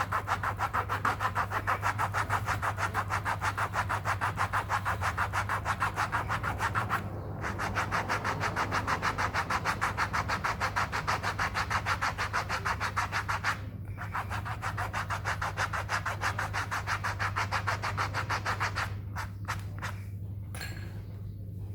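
Fast rhythmic scraping, about five strokes a second, with short breaks about 7 and 14 seconds in and slower, scattered strokes near the end, over a steady low hum. This is typical of roughening a bicycle inner tube with an abrasive around a puncture before patching.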